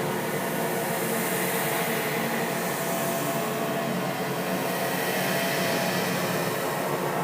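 A steady, unbroken noisy drone, a rushing hiss laced with many faint held tones and no distinct events, typical of a horror ambience sound effect.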